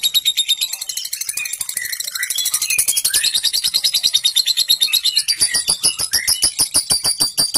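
Lovebird's long 'ngekek' chatter: a fast, even rattle of about nine notes a second, with short whistled bird notes sliding up and down over it.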